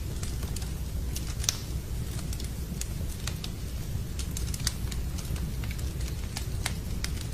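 Wood fire in a fireplace crackling, with irregular sharp pops and snaps several times a second over a steady low rumble.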